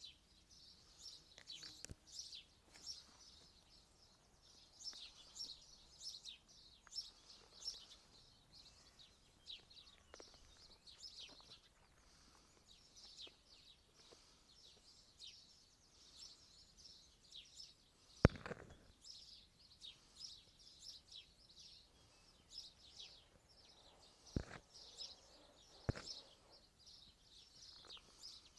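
Many small birds chirping and singing in a busy chorus of quick high notes. A few sharp clicks cut through it: a loud one about two thirds of the way in and two fainter ones near the end.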